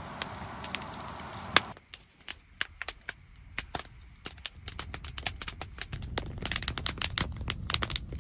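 Wood campfire crackling, with irregular sharp pops and snaps from burning sticks that come thicker near the end.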